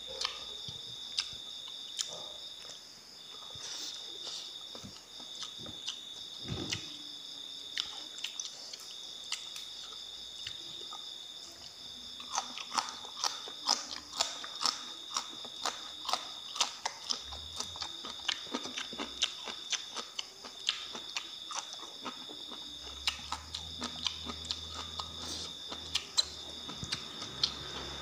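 Close, wet chewing and crisp crunching of food eaten by hand, including raw long beans, with the crunches coming thick and fast from about halfway through. Behind it, a steady high-pitched insect trill.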